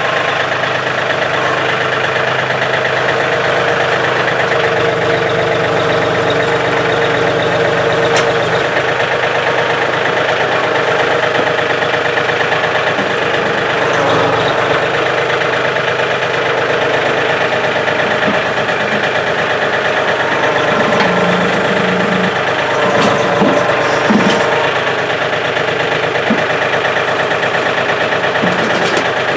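John Deere tractor's Yanmar diesel engine idling steadily.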